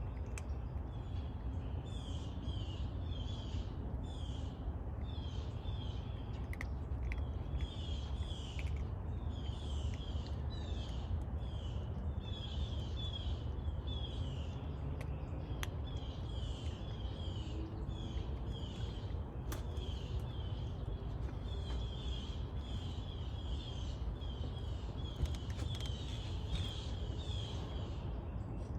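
Birds chirping over and over in quick clusters of short, high notes, over a steady low rumble.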